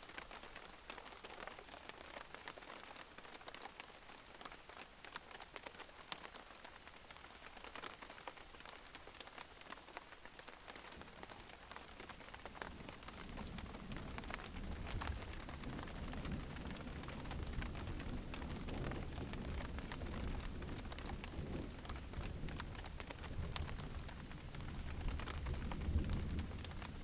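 Steady rain with many separate drops pattering on a surface. About halfway through, a low rumble of distant thunder rolls in and grows, loudest near the end.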